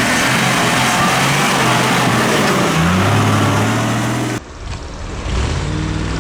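Off-road race truck engine revving hard under load amid loud rushing noise, its pitch rising about three seconds in. After about four seconds the sound cuts off abruptly and a quieter engine comes in, running steadily.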